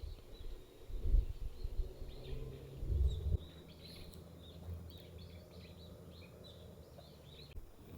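Small birds chirping in a quick series of short, high calls. A few low thuds come in the first few seconds.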